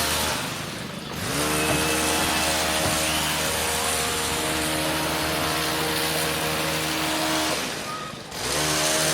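Gas-powered hedge trimmer engine running at high speed, easing off twice (about half a second in and again near the end) and picking back up each time, its pitch rising as it returns.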